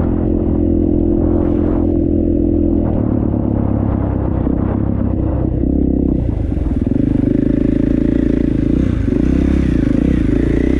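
KTM dirt bike engine running hard, the revs dropping about three seconds in and rising again after about six seconds.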